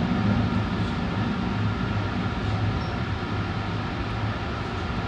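Tsukuba Express electric train running, heard from inside behind the front window: a steady rumble with a low hum that eases off about four seconds in.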